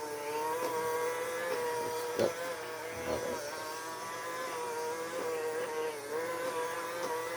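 Small robot vacuum cleaner running: a steady buzzing motor whine that wavers slightly in pitch. There is a light knock about two seconds in.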